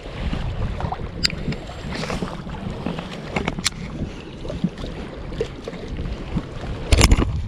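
Wind rumbling on the microphone aboard a fishing kayak, with scattered small clicks and taps of gear on the hull and a louder knock about seven seconds in.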